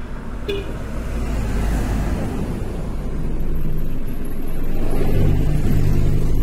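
Car engine running with a steady low rumble that grows louder about four seconds in.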